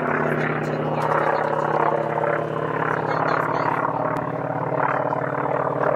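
A propeller airplane's engine running steadily at an even pitch.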